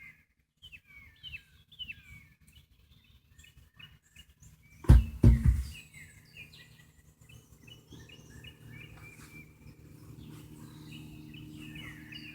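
Birds chirping, then two loud knocks about five seconds in, followed by a steady low hum that slowly grows louder.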